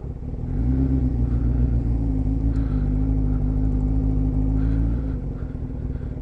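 A motor vehicle engine running at a steady low pitch. It comes up with a short rise about half a second in, holds for about four seconds, then fades away, over the steady rumble of engine and road noise.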